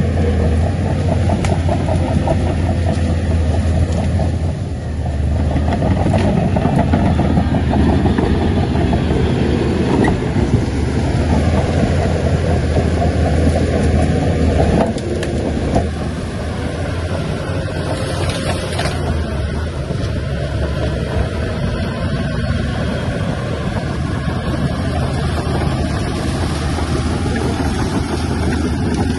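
Heavy diesel engine of a Shantui crawler bulldozer running steadily while working. It drops slightly in level about fifteen seconds in.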